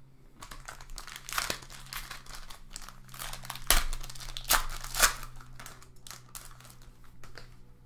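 Crinkling and tearing of a football trading-card pack's foil wrapper as it is opened, in an irregular run of sharp crackles, loudest around the middle.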